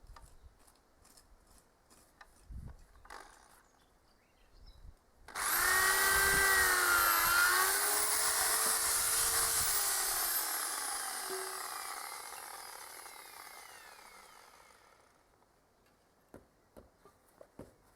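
Power drill boring holes into timber roof rafters. The motor starts suddenly about five seconds in, its pitch wavers under load, then it winds down and fades over several seconds.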